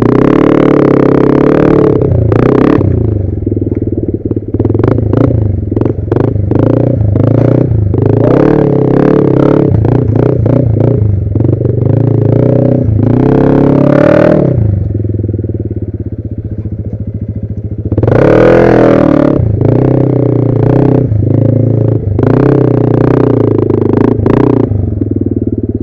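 Yamaha NMAX 2020 scooter's single-cylinder engine running as it is ridden, revving up and easing off twice, with frequent knocks and rattles.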